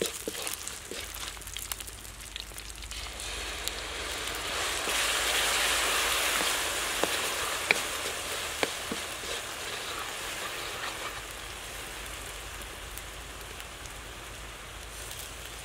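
Dried red chillies and garlic sizzling in hot oil in a wok, with a spatula scraping and clicking as it stirs. The sizzle swells about four seconds in, when dark liquid goes into the pan, then slowly dies down as it bubbles.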